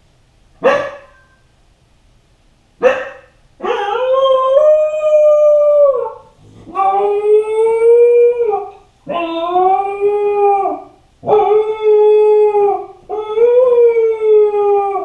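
Kai Ken dog howling while left home alone: two short barks, then five long howls in a row, each holding its pitch and falling away at the end. A lonely howl.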